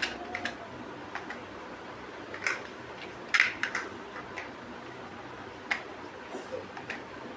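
Plastic building bricks clicking and tapping as they are handled and snapped together: scattered sharp clicks, irregularly spaced, with a quick cluster of louder snaps about three and a half seconds in.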